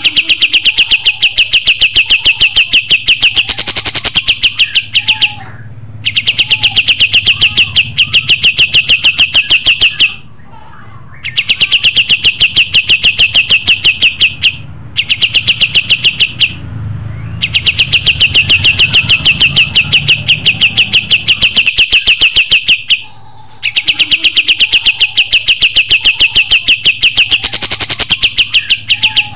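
Kapas tembak songbird singing energetically (gacor) in long, rapid, evenly pulsed trills, each phrase several seconds long with brief pauses between, repeated five times.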